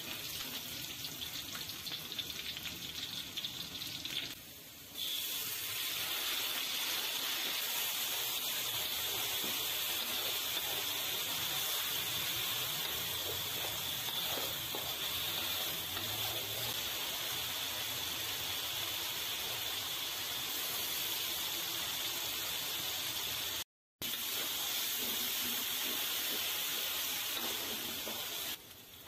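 Steady sizzling of hot oil and ground green chili paste frying in a steel wok. The sizzle dips for a moment about a sixth of the way through and cuts out for an instant about four fifths of the way through.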